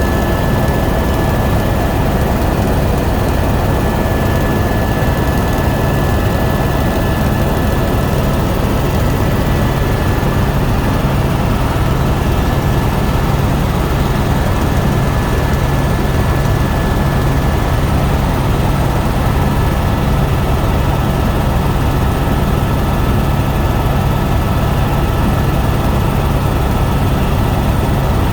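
Helicopter engine and rotor noise: a loud, steady drone with a low rumble and a thin, constant high whine.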